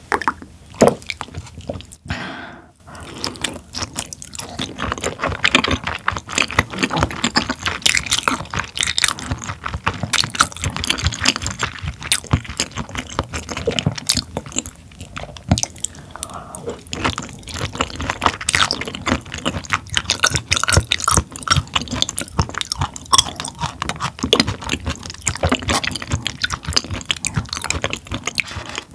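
Close-miked chewing of raw tuna sashimi: a dense, steady run of quick mouth clicks, with a brief pause about two seconds in.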